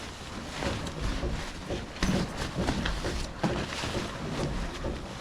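Irregular rustling and light knocking of camping gear being handled, with a low rumble of wind on the microphone.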